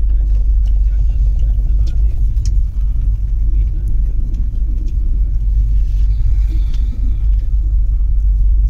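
Trains on the move: a steady, deep rumble of wheels on track, heard from inside a closed air-conditioned coach as another train's coaches pass close by the window, with a few light clicks.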